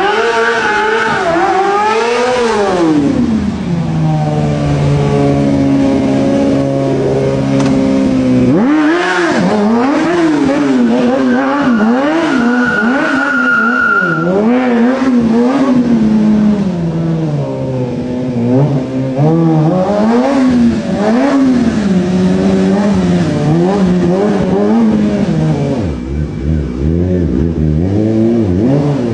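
Motorcycle engine revving up and down over and over as it is ridden, the pitch swinging high and low every second or two, with a brief high-pitched squeal near the middle. Near the end it drops to a lower, steadier running note.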